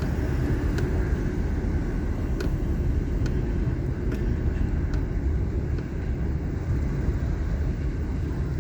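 Car driving slowly, a steady low rumble of engine and road noise heard from inside the car, with a few faint clicks.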